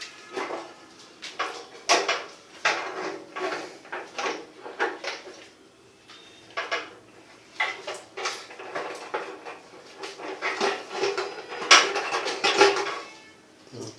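Irregular metal clinks and knocks, some with a short ring, as parts of a gas water heater's burner assembly are handled and worked with hand tools.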